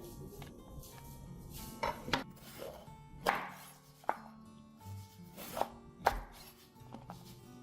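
Knife chopping on a cutting board: about six irregular strokes, over soft background music.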